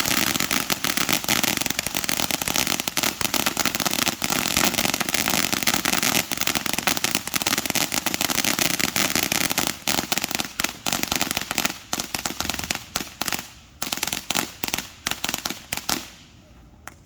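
Fireworks crackling: a dense, rapid run of pops for about ten seconds, which then thins to scattered pops and dies away near the end.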